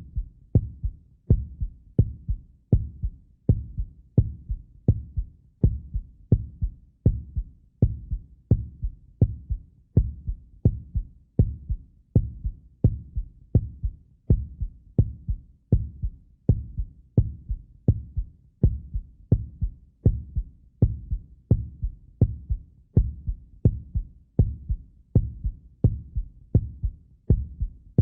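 Heartbeat sound effect: low, paired thumps repeating steadily at roughly one beat a second.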